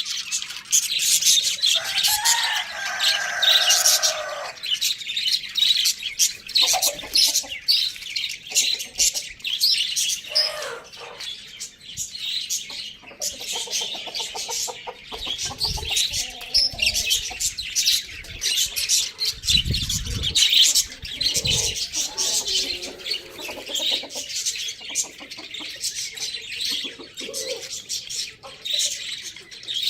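A flock of small birds chirping and chattering continuously, with a lower call about two seconds in.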